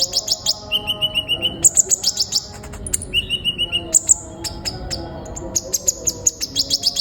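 Kolibri ninja sunbird singing: rapid runs of high, sharp chirps, broken by short fast trills about a second in and again near three seconds.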